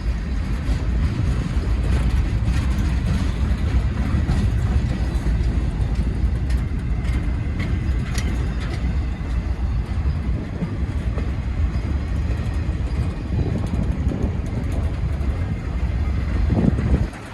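Freight train of hopper cars rolling past, a steady low rumble of steel wheels on the rails with faint clicks.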